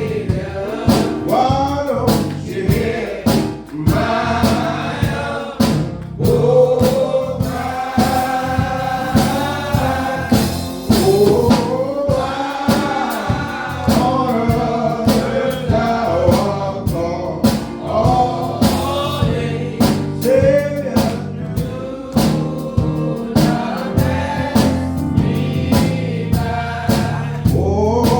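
Gospel choir singing over a steady beat.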